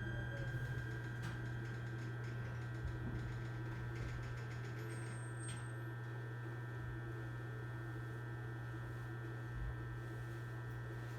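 Inside an E129 series electric train's motor car, the motor whine falls in pitch and fades out at the very start, as the train slows to a stop. It is followed by a steady electrical hum from the car's equipment, with a couple of faint clicks.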